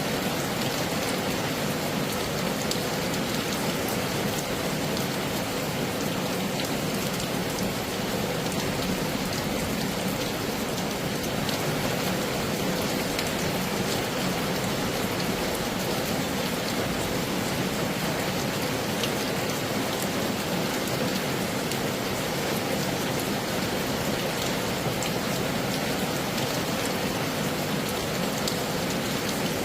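Heavy rain falling steadily: a dense, even hiss of rain with many small drop ticks scattered through it.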